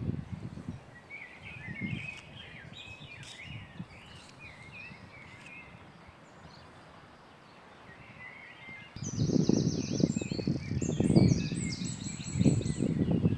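Small birds chirping and singing, with quick repeated high notes in the second half. About two-thirds of the way in, a louder uneven low rumbling noise starts up under the birdsong.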